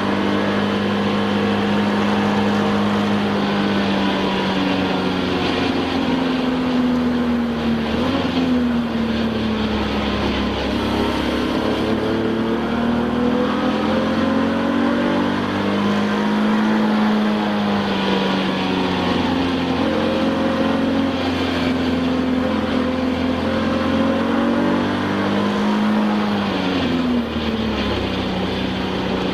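Touring-class race car engine heard from inside the cockpit at racing speed, its note climbing and falling through the gears and dropping sharply twice, about a third of the way in and near the end, as the driver brakes and downshifts. Road and wind noise run underneath.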